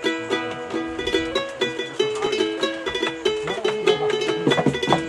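A plucked string instrument playing a quick, repeating pattern of single notes, growing busier near the end.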